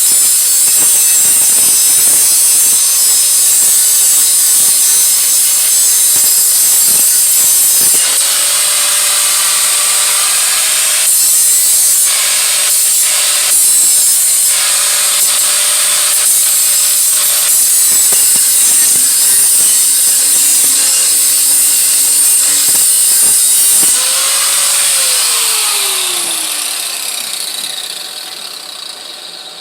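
Handheld power grinder working on the steel exhaust head pipe, a loud steady grinding hiss that breaks off briefly several times. Near the end the tool is released and winds down, its whine falling in pitch as it fades.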